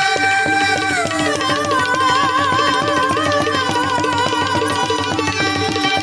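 Indian devotional music: tabla playing a fast, steady rhythm under a melody line that holds a long note, then drops and wavers.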